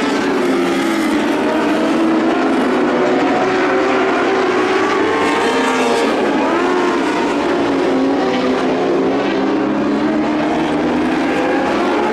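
Several lightning sprint car engines racing together on a dirt oval, their overlapping notes wavering up and down in pitch as the cars lap.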